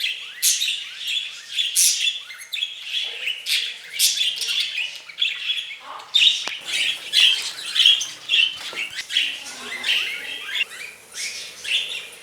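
Budgerigars chattering and squawking: a continuous run of short chirps broken by sharp, loud calls.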